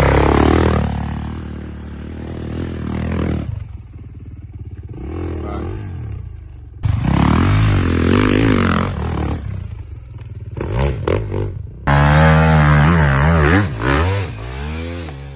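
Dirt bike engines revving hard and dropping back, their pitch sweeping up and down, in several short clips cut together. Around the middle comes a run of quick throttle blips.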